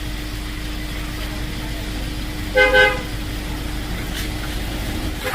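A vehicle horn giving two short toots in quick succession, about two and a half seconds in, over a steady low hum.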